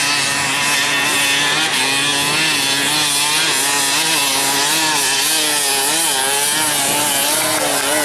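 Dirt bike engines revving up and down without pause, their pitch wavering constantly as the throttle is worked.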